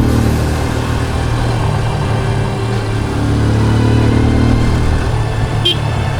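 Motorcycle engine running steadily while riding, with road and wind noise; a short click near the end.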